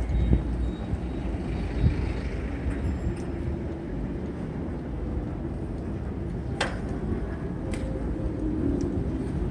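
Steady low rumble of road traffic heard from a moving bicycle, with a couple of sharp clicks in the second half.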